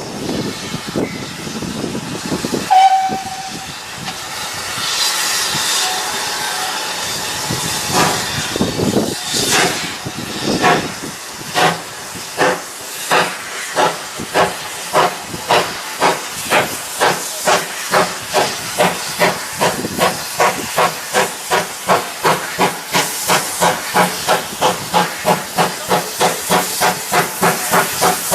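Steam locomotive giving a short whistle, then starting away: its exhaust beats come slowly at first and quicken steadily to two or three a second as it gathers speed, with a constant hiss of steam.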